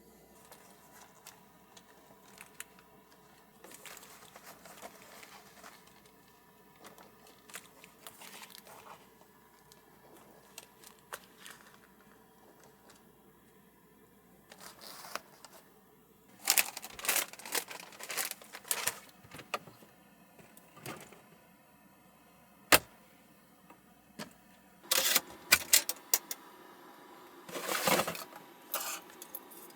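Things being handled up close in a small enclosed space: scattered light clicks at first, then from about halfway louder runs of clattering and crinkly rustling, with one sharp click.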